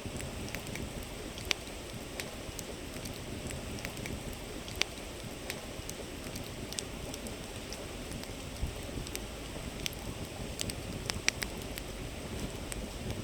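Wood fire crackling with scattered sharp pops, several louder ones standing out, over the steady rush of a flowing river.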